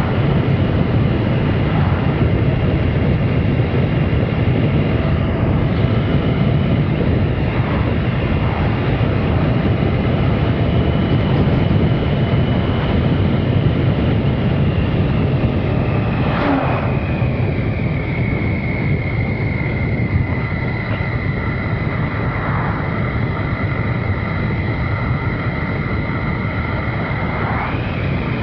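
Triumph Sprint RS's 955cc three-cylinder engine running while the bike is ridden on the road, mixed with wind rushing over the microphone. A steady high whine drifts lower in pitch about two-thirds of the way through.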